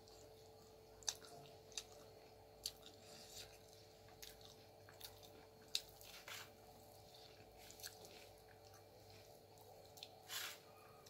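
Crisp uthappa being broken and chewed: a string of faint, sharp crunches at irregular intervals, the loudest about a second in and just before six seconds, with a longer crunch near the end.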